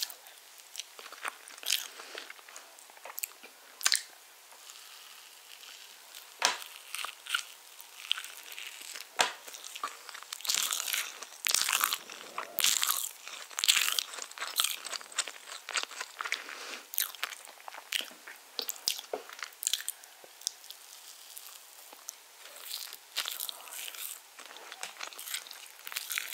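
Close-miked mouth sounds of a person chewing soft iced spiced orange sponge cake: irregular wet clicks and smacks, some much louder than the rest.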